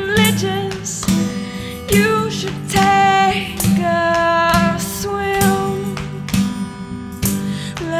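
A song: a voice singing held notes over strummed guitar.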